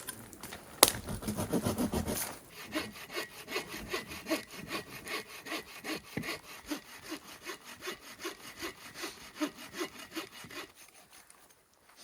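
Hand saw cutting through a small felled tree, working it into sections, with even back-and-forth strokes at about two a second. A sharp knock comes just under a second in, and the sawing stops near the end.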